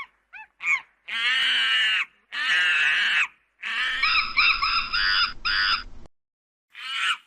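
Bird calls: a few short chirps, then two long harsh calls of about a second each, a rapid run of calls between about four and six seconds in, and one more call near the end.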